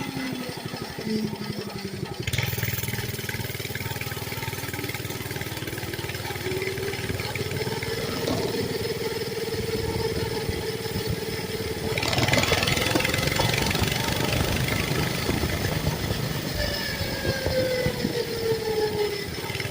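Mini bike's small engine running while riding, its pitch rising and falling with the throttle. About twelve seconds in, a louder rushing noise joins it.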